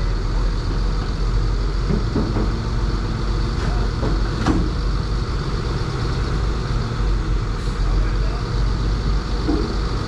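Heavy diesel engine of earth-moving equipment running steadily at a low, even speed, with a few faint knocks about two and four and a half seconds in.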